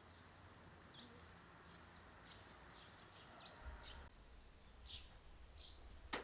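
A small bird's short, high chirps, repeated every half-second to a second, faint against a quiet background. A single sharp click just before the end.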